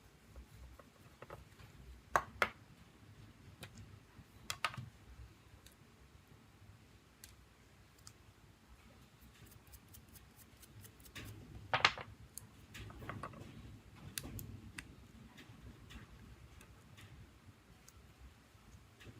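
Scattered small, sharp clicks and taps from hand work on a smartphone's parts: a pair about two seconds in, another pair near five seconds, the loudest about twelve seconds in, with fainter ticks between.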